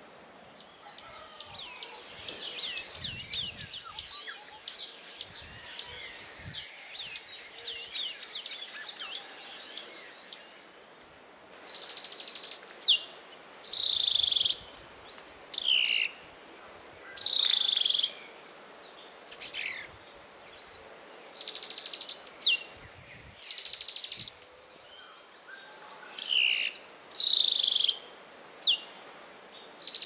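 Wild birds calling. For about the first ten seconds there is a fast, jumbled twittering song. Then, after a change about eleven seconds in, short downward-sliding whistled calls come every second or two, mixed with short buzzy bursts.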